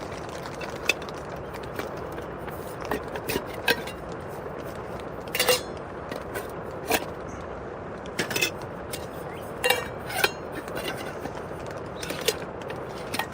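Camp cookware and utensils clinking and knocking irregularly as a cook kit is handled and set out, the loudest knocks about halfway through, over a steady hiss of rain on the tent fabric.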